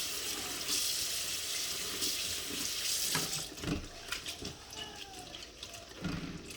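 Water running from a kitchen tap as cicadas are rinsed, a steady rush that gives way after about three seconds to lighter splashing and small knocks.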